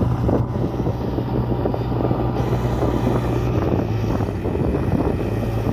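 A heavy vehicle's engine running at a steady speed: an even low hum with rough noise over it.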